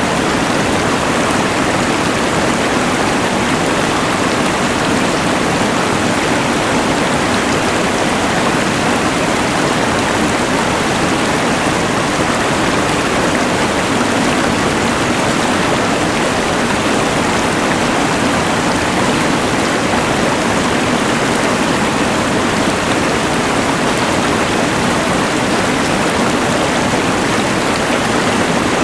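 A rushing mountain river together with the steady hiss of a LectroFan white noise machine, making one even, unchanging wash of noise.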